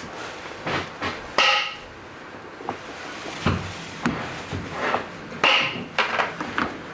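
Sharp wooden knocks on a kabuki stage: two loud, ringing clacks about four seconds apart, with lighter knocks between them.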